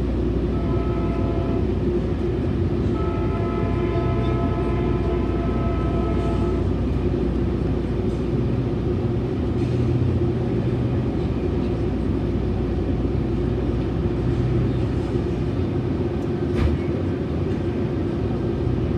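Metrolink commuter train running, heard from on board: a steady rumble of wheels on the rails. For the first six seconds or so, the horn sounds a chord of several tones in long blasts with short gaps, then stops. One sharp knock comes about sixteen seconds in.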